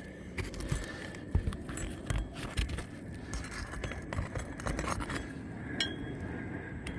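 Scattered scrapes, clicks and light metallic clinks of hand work on a laminated asphalt shingle, as it is pried up to get a nail under it.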